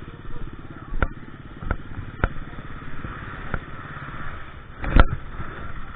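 KTM EXC 350 dirt bike engine running at fairly steady revs off-road, with several sharp knocks and rattles from the bike over rough ground. The loudest knock comes about five seconds in.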